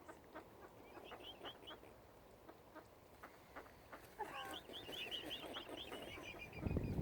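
Waterside birds calling: two runs of quick, high chirping notes, with a few lower calls mixed in about four seconds in. Near the end a low wind rumble on the microphone comes up.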